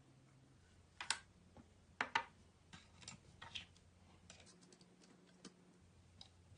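Scattered light clicks and taps at irregular intervals, with a faint steady low hum underneath.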